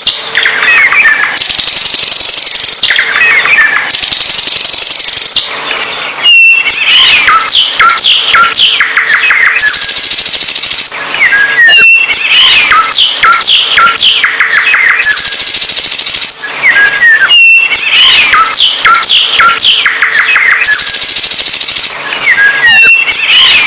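A songbird singing loudly and continuously, with quick chirps, trills and high hissy notes. The same song sequence repeats about every five and a half seconds, as in a looped recording.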